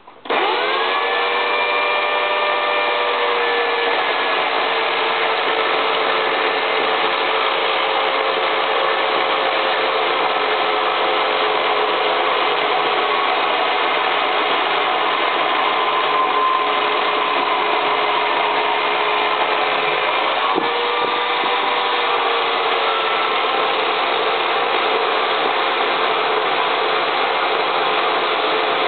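Chainsaw starting up suddenly, its pitch rising briefly, then running steadily at speed. About two-thirds of the way through its pitch dips for a moment before settling again.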